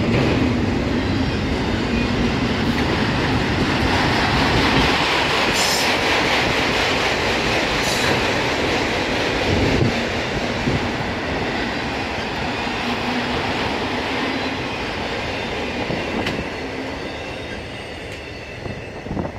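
Autorack freight cars rolling past: a steady rumble and rattle of steel wheels on the rails, with a few sharp clacks. It fades away near the end as the last car goes by.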